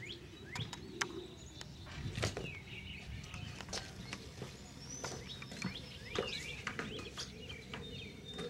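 Small birds chirping outdoors: many short chirps that rise and fall, scattered across the whole stretch. Several sharp knocks and taps stand out over them, the loudest about one and two seconds in.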